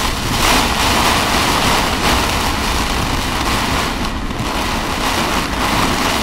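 Very heavy rain pounding on a vehicle's windshield and roof, heard from inside the cab: a loud, steady rush that swells and eases every second or two.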